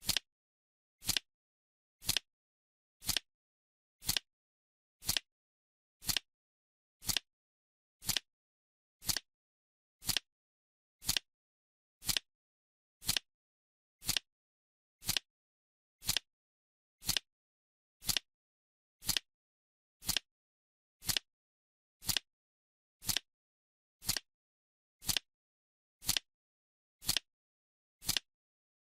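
Countdown timer's clock-style ticking sound, one short, sharp tick every second with silence in between.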